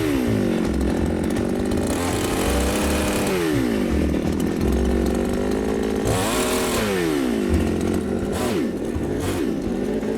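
Two-stroke chainsaw running at high revs, its engine pitch dropping and climbing back up several times as the throttle is worked or the saw takes load.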